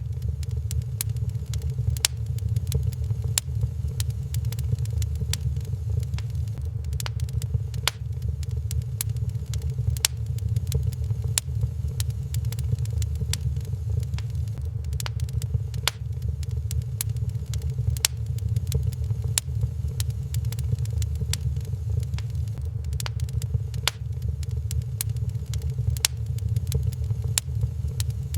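Wood fire crackling in a fireplace, with frequent sharp irregular pops over a steady low rumble.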